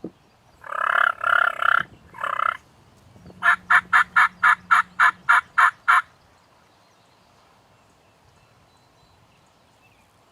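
Wild turkey gobbling for about two seconds, then a run of about nine quick, evenly spaced yelps.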